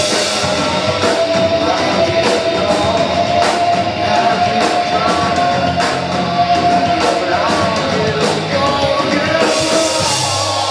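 Live rock band playing loudly: drums with regular cymbal strikes, guitars and singing, with one long held note through most of it.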